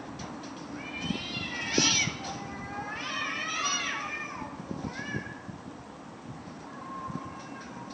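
Two cats yowling at each other in a fight: two long wavering yowls, the first about a second in and the second about three seconds in, then a shorter call near five seconds.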